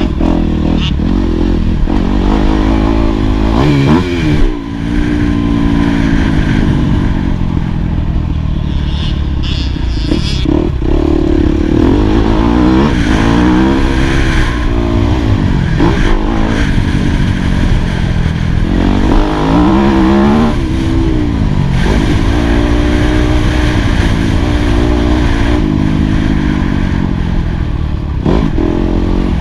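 2018 Yamaha YZ250F four-stroke single-cylinder motocross engine working hard on track, its pitch rising and falling over and over as the throttle is opened and closed. There is a brief sharp dip in level about four and a half seconds in.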